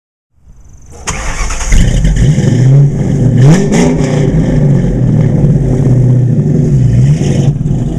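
The 2001 Bullitt 4.6-litre fuel-injected V8 in a 1968 Ford Mustang Fastback starts, catching about a second in, then is revved several times. The pitch rises and falls, with the highest rev near the middle.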